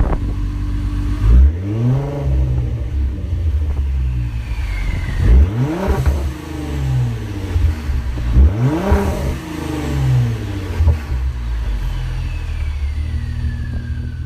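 Twin-turbo EcoBoost V6 in a Ford Mustang idling and blipped three times, each rev rising quickly and falling back to idle. A thin whistle falls in pitch after the second rev and again near the end.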